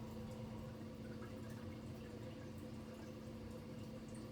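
Quiet room tone: a steady low hum with a few faint light ticks.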